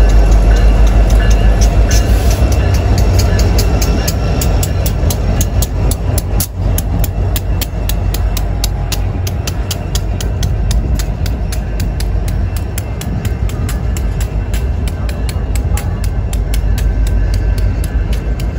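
Union Pacific freight train passing close by: the diesel locomotives' heavy engine rumble is loudest at first and eases after a few seconds, then intermodal well cars roll past with a rapid, steady clicking of wheels over the rail joints.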